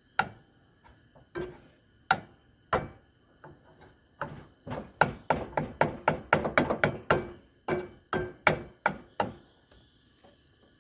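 Metal spatula tapping and scraping against a frying pan while working eggs: a string of sharp clinks, a few spaced ones at first, then several a second from about four seconds in, stopping a little before the end.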